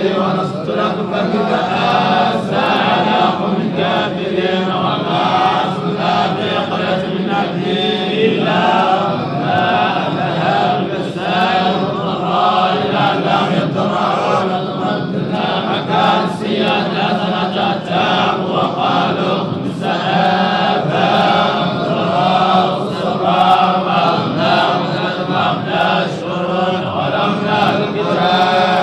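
Quran recitation chanted in a continuous melodic voice, the lines held and bent without pause.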